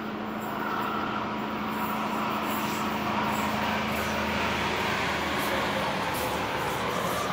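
Diesel passenger train passing close by: a steady engine hum under the rushing rolling noise of the carriages, growing louder in the first second and then holding steady.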